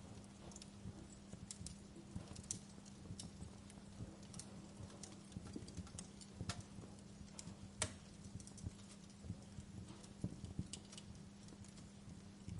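Wood fire crackling: irregular, scattered pops and snaps over a low steady hum.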